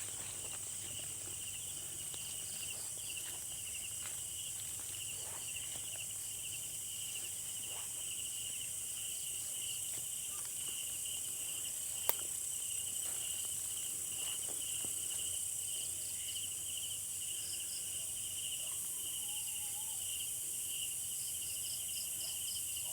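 Chorus of night insects: a steady pulsing trill in the middle range with a continuous high-pitched hiss above it. A single sharp click sounds about halfway through.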